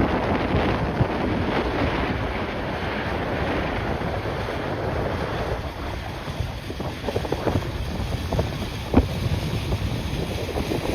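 Strong gusty wind buffeting the microphone, a rough rumbling hiss that rises and falls, with a few sharp knocks from gusts hitting the mic.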